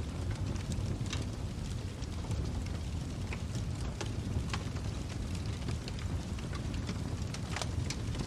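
Wood fire burning in a fireplace: a steady low rush of flames with scattered sharp crackles and pops, several of them within a few seconds.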